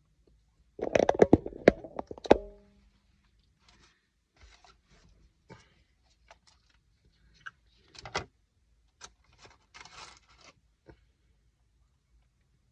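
Takeout food packaging being handled: a burst of scraping and clicking about a second in, ending in a short ringing knock, then scattered soft rustles and clicks.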